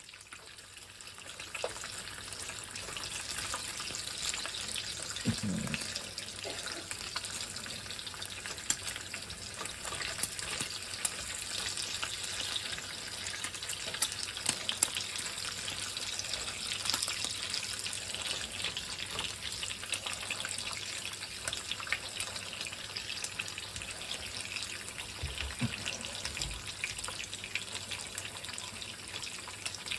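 Pot of chicken rice soup heating on the stove toward a boil: a steady hiss with many small ticks and crackles, as the liquid begins to simmer.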